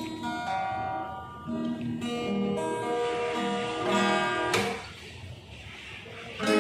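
Acoustic guitar being played: picked notes and chords ringing one after another, with a louder strum about four and a half seconds in. A quieter stretch follows, then a fresh chord near the end.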